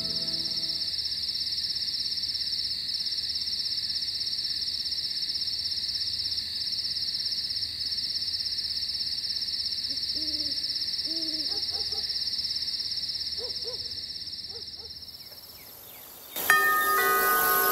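Night ambience: a steady high-pitched insect trill, like crickets, with a few faint low hoots about ten to fourteen seconds in. The trill fades out, and near the end several held chime-like tones start abruptly.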